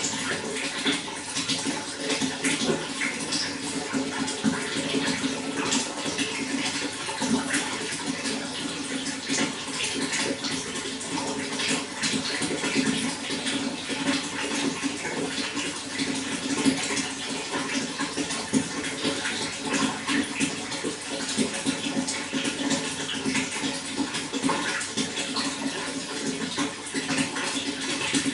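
Running water splashing and flowing steadily, with dense small splashes and a constant low rush.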